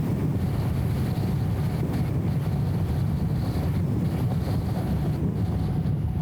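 BMW E34 M5 Touring on the move: a steady low drone of engine and road noise, muffled and dulled by the camera's anti-wind audio filter.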